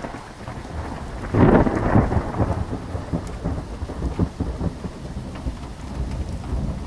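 Thunderstorm sound effect: steady rain, starting abruptly, with a loud clap of thunder about a second and a half in that rolls off into low rumbling.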